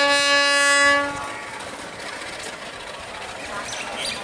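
Diesel locomotive horn: one long, steady blast that cuts off about a second in. It gives way to the steady rumble of the train running along the rails.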